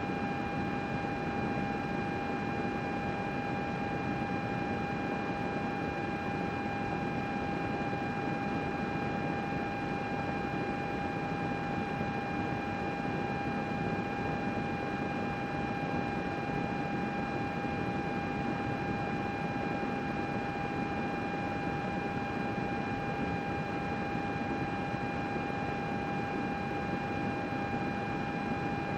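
A computer running steadily: fan noise with a constant high whine on top.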